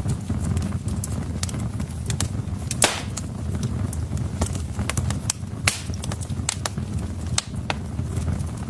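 Wood fire burning in a fireplace: logs crackling with irregular sharp pops over a steady low rumble of the flames, with two louder pops about three and six seconds in.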